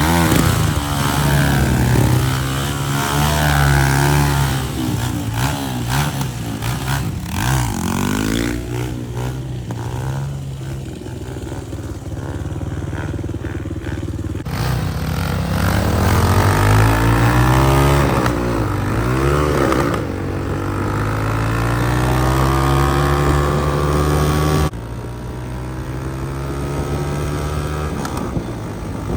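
Motorcycle engine running while being ridden, its pitch rising and falling over and over as the rider revs and eases off. The sound changes abruptly twice, about halfway through and near the end.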